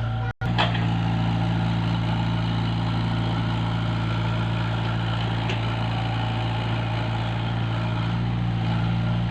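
A heavy engine idling with a steady, even hum. The sound drops out for an instant just after the start.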